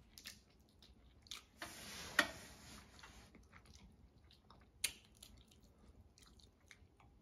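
Quiet close-miked eating sounds of seafood boil: chewing with wet mouth clicks, a longer rustling noise about two seconds in that peaks in a sharp click, and another sharp click near the end.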